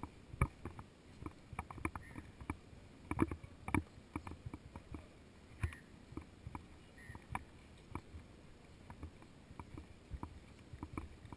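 Footsteps walking at an uneven pace, a string of short knocks about two to three a second, a few louder than the rest, over faint outdoor background noise.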